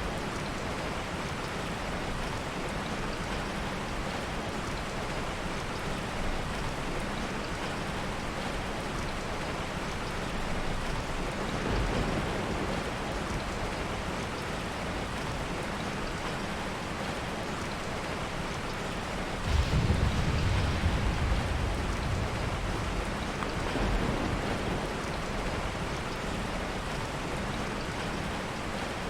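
Heavy rain falling steadily. A low rumble of thunder swells up suddenly about two-thirds of the way through, with fainter rumbles a little before and after.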